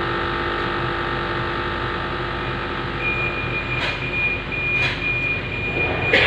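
Budapest M2 metro train standing at a station, its equipment giving a steady hum that fades. From about halfway a high, pulsing door-closing warning tone sounds, with a few knocks from the doors.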